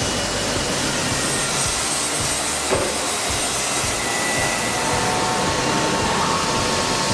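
Steady, loud machine noise: an even hiss with no rhythm, a single brief click about a third of the way in, and a faint steady tone joining near the end.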